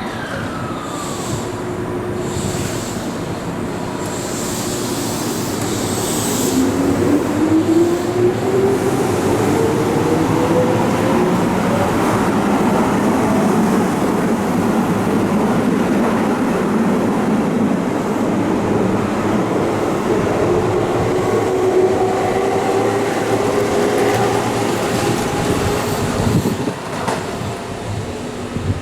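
Keihan electric train pulling out and picking up speed: the traction motors give a whine that rises in pitch about a quarter of the way in, over the rumble of wheels on the rails.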